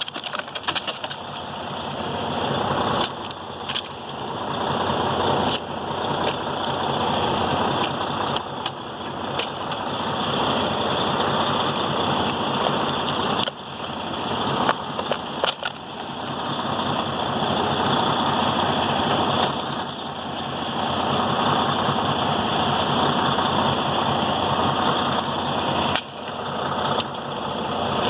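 Semi truck's diesel engine idling steadily, its loudness swelling and dipping, with scattered sharp clicks and knocks over it.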